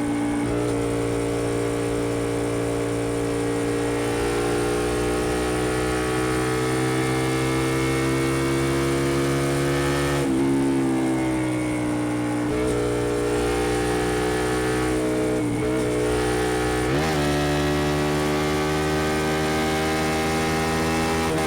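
Honda XL125V Varadero's 125cc V-twin through a BlackWidow aftermarket exhaust, under way with the engine note slowly rising. In the second half the pitch drops and climbs back several times, as at gear changes.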